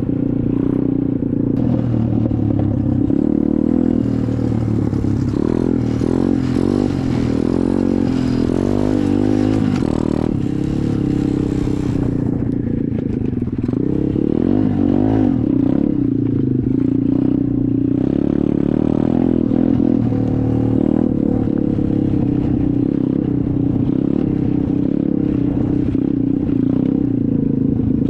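SSR 125 dirt bike's single-cylinder four-stroke engine running while riding, its pitch rising and falling with the throttle. A steady hiss lies over it for roughly the first twelve seconds.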